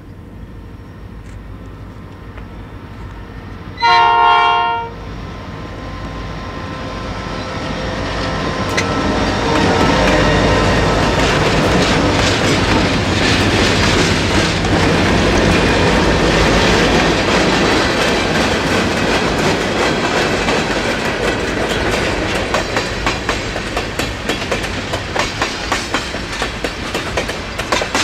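Diesel freight train passing: one short chord blast of the EMD SD40-type locomotive's horn about four seconds in, then the engines' rumble swelling as the locomotives go by, giving way to regular clicking of wheels over rail joints as tank cars roll past.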